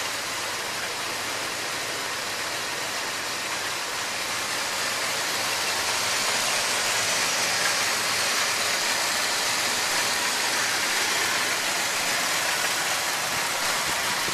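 1986 Chevy C-20's 454 big-block V8 idling steadily, a little louder from about halfway.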